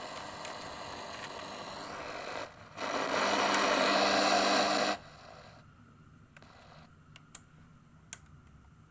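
Sony ICF-J40 portable radio's speaker hissing with static. The hiss swells louder for about two seconds in the middle, then cuts off suddenly, followed by a few faint clicks.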